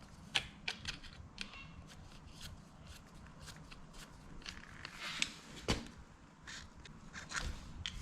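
Light, irregular clicks and taps of hand tools and small metal parts being handled, with an occasional scrape, during work on a motorcycle engine.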